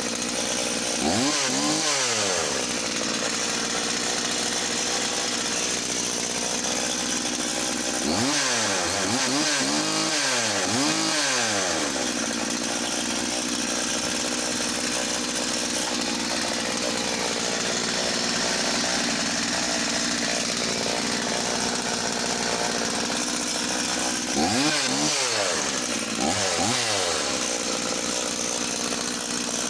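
Husqvarna Rancher 50 two-stroke chainsaw idling steadily while warming up after a stone-cold start. It is revved up and back down once about two seconds in, three times in quick succession around ten seconds in, and twice near the end.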